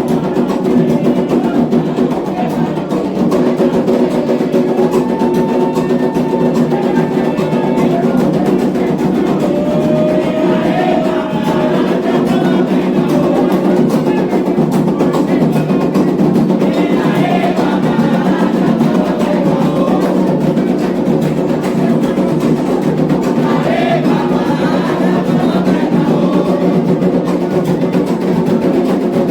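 Candomblé ritual music: atabaque hand drums playing a steady, continuous rhythm for Oxumaré, with a struck wooden- or bell-like percussion part and voices singing over it.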